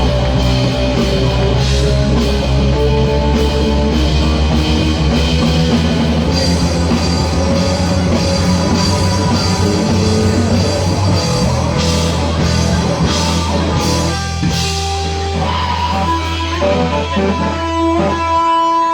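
Live band playing rock music with electric guitar, bass and drums; near the end the bass and drums drop out and the guitar rings on with held notes.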